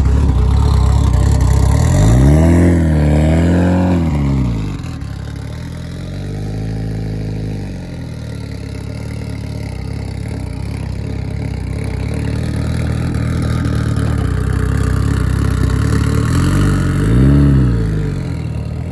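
Turbocharged Mitsubishi Eclipse drag car's engine idling roughly, revved briefly about two seconds in, again more gently around six seconds, and once more near the end as the car pulls away slowly.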